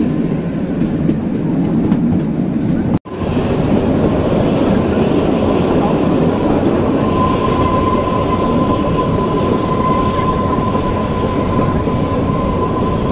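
Kalka–Shimla narrow-gauge toy train running, heard from a coach doorway: a steady rumble and rattle of the coaches on the track. From about seven seconds in a thin steady wheel squeal joins it as the train rounds a curve. There is a brief cut-out about three seconds in.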